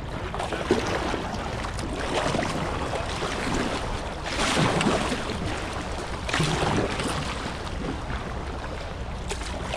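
River water rushing and splashing around a whitewater kayak, a steady wash of noise with louder surges of splashing about four and a half and six and a half seconds in.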